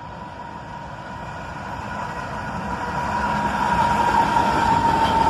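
Diesel freight train approaching, its rumble and rail noise growing steadily louder, with a steady high-pitched ringing tone that strengthens as it nears.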